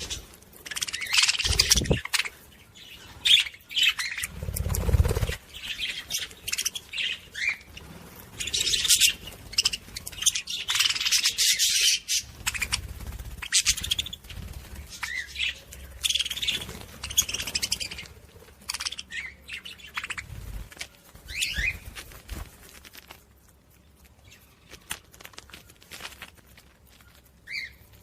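Budgerigars chattering: a dense run of quick high chirps and warbles that thins out near the end, with a couple of low thuds in the first few seconds.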